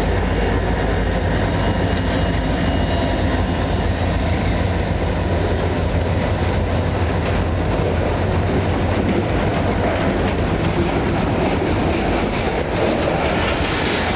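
Diesel-hauled freight train passing close by: the locomotives' deep engine rumble is strongest in the first half, then loaded boxcars roll past with steady wheel-on-rail noise.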